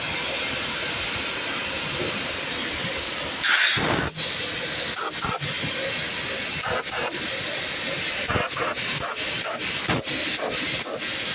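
A steady hiss of rushing air or spray, broken by one louder burst about three and a half seconds in and then many short sharp bursts through the second half.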